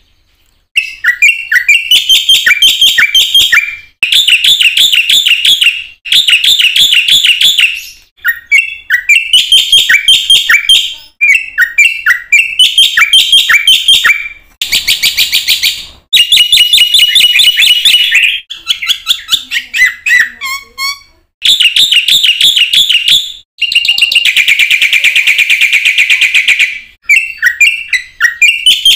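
Black-winged myna (jalak putih) in full song: loud, fast phrases of chattering and whistled notes, each about two to three seconds long, broken by short pauses.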